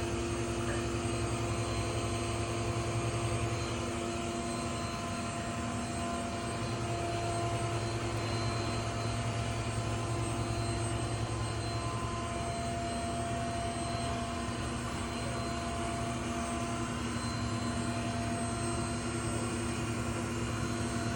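Robot vacuum cleaner running: a steady motor and fan drone with a thin, constant whine.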